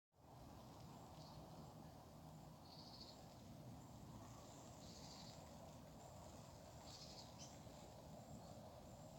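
Faint outdoor ambience with a few short, high chirps scattered through it.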